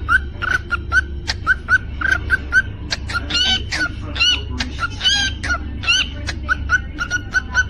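Cockatiel chirping: a run of short, repeated chirps at about three a second, broken in the middle by a few longer warbled whistles, with scattered sharp clicks over a steady low hum.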